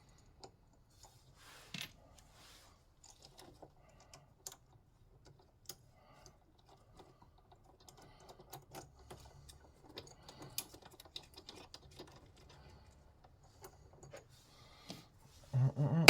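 Scattered light clicks and clinks of small metal parts and tools being handled while fitting battery terminals, with a sharp, louder knock at the very end.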